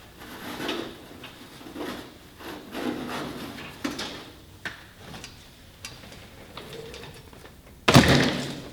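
Loose parts and debris being rummaged through and handled by hand in a truck cab: irregular rustling, scraping and light knocks, then one loud bang about eight seconds in.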